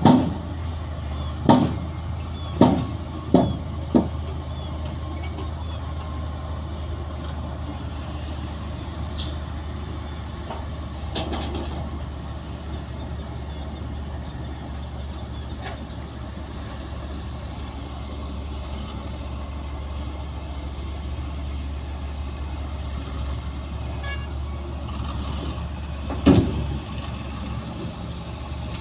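Heavy diesel earthmoving machinery running with a steady low drone. Sharp loud bangs come about five times in the first four seconds and once more near the end.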